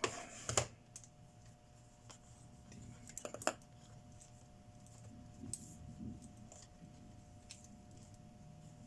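Scattered small clicks and taps of tools and parts being handled on a workbench: a sharp cluster at the start and another about three and a half seconds in, with a few light ticks after, over a faint steady hum.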